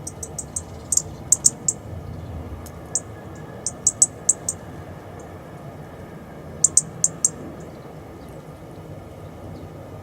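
Small garden songbird giving short, sharp, high chip calls in quick runs of four to six, three runs in all, over a steady low background hum.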